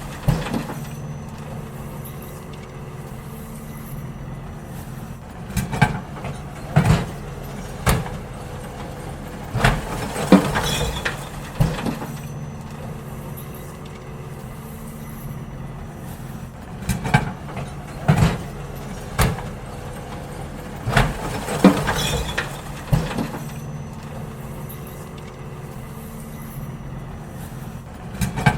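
Garbage truck emptying wheelie bins: the engine runs steadily while clusters of clanks and bangs come every few seconds as bins are lifted, tipped into the hopper and set back down.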